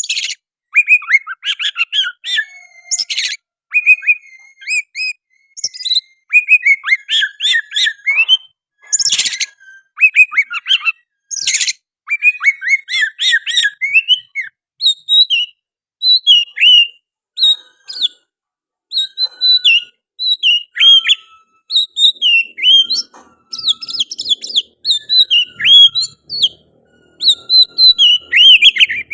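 Oriental magpie-robin (kacer) singing a long, fast run of varied whistled phrases with short pauses between them, its song filled with sooty-headed bulbul (kutilang) phrases. Three harsh rasping notes break in during the first half.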